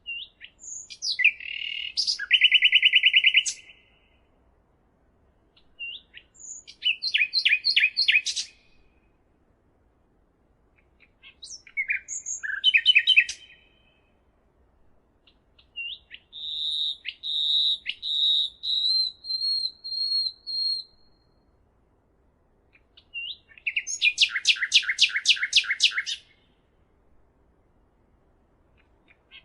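A songbird singing five separate phrases of sharp chirps and rapid trills, each a second or two long (one near the middle runs about five seconds), with a few seconds of quiet between phrases.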